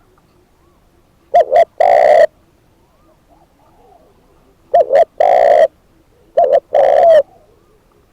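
Spotted dove cooing loudly, three times: each phrase is two short coos followed by a longer, drawn-out one.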